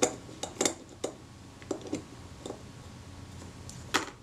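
Scattered light clicks and taps from small metal parts being handled in a camera's leaf shutter mechanism. There are about half a dozen irregular clicks, the sharpest one near the end.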